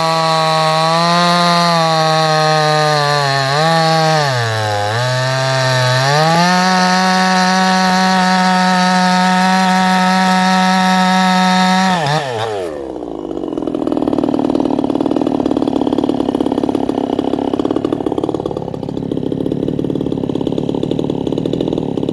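58cc Chinese two-stroke chainsaw at high revs: the pitch dips twice about four to five seconds in, then holds high and steady. About twelve seconds in it drops sharply and the saw runs on at a lower, rougher note.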